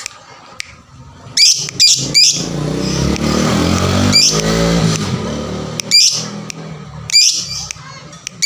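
Fighter lovebird giving short, shrill squawking calls, repeated every second or so. A lower droning sound runs under the calls for a few seconds in the middle.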